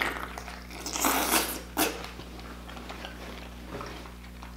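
Close-up mouth sounds of someone eating king crab meat: a few loud bursts of chewing about a second in, then softer chewing.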